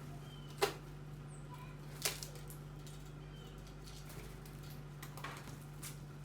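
Two sharp taps about a second and a half apart, a softer one near the end, over a steady low hum, with a few faint short bird chirps.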